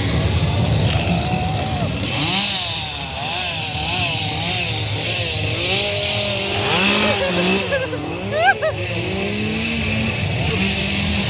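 A motor engine running steadily with a hiss, and wavering voices over it, with a brief loud high cry about eight and a half seconds in.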